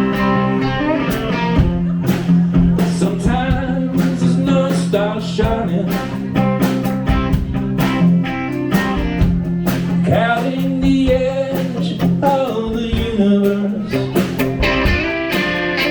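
Live rock band playing: electric guitars over bass and drums with a steady beat.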